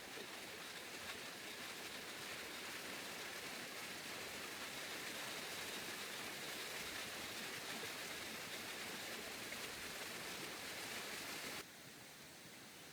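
Steady hiss of water, falling or running, which cuts off suddenly near the end.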